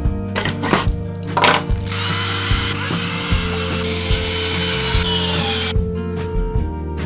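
A power drill running steadily for about four seconds, after a few short bursts of the motor, over background music.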